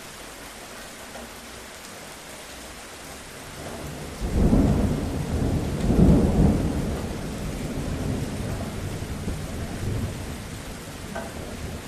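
Steady rainfall, then a roll of thunder breaks in about four seconds in, rumbling loudest twice before slowly fading back under the rain.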